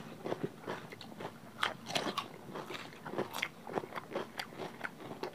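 Mouths chewing food close to the microphone, with crisp crunches from bites of raw cucumber: an irregular scatter of small wet clicks and crunches.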